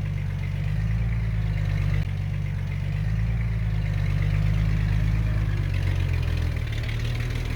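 Diesel engine of a construction machine running steadily at low revs, a low, even rumble.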